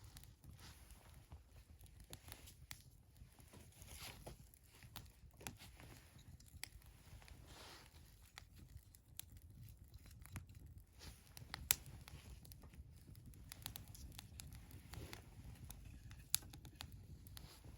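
Wood fire crackling faintly, with irregular sharp pops over a low steady rumble; the two loudest pops come about twelve and sixteen seconds in.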